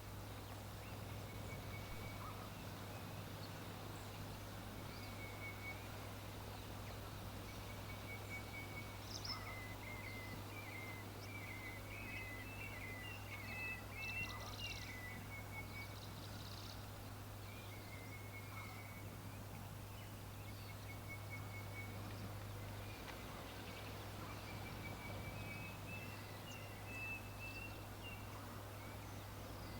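Faint bird calls: runs of short, high chirping notes recurring throughout, over a steady low hum and background hiss.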